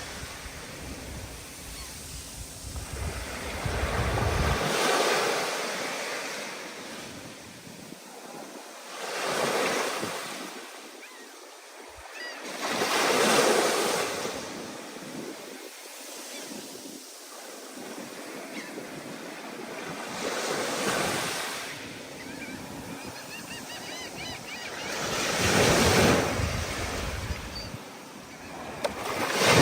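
Ocean surf breaking in rough, stormy conditions: waves crash in repeated swells every four to seven seconds, with a low rumble beneath during the first few seconds.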